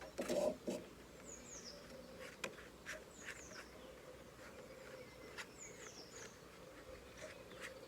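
Faint bird chirps: short, high, falling notes in small groups about every two seconds, with a few light taps and clicks between them.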